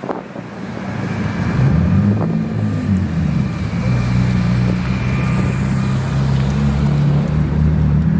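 A car engine running close by at low revs, swelling in over the first two seconds, its pitch wavering briefly about two to three seconds in, then holding steady.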